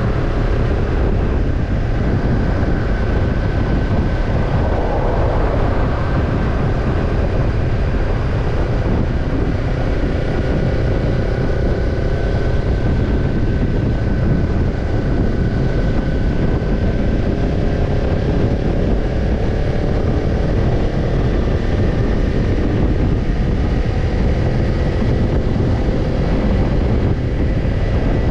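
Kawasaki Ninja 250 parallel-twin engine running through a BEET Nassert Evolution Type II titanium slip-on muffler while riding at a steady cruise. The engine pitch holds nearly even with slow, slight drifts, under a heavy low rush.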